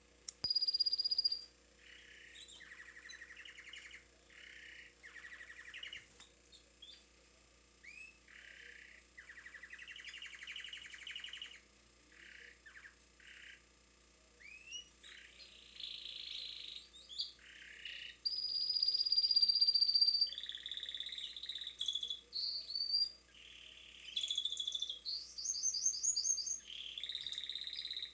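Domestic canary singing: a string of phrases of rapid rolling trills alternating with clear, high whistled notes and short rising notes. The loudest is a long, high, piercing whistle about two-thirds of the way through.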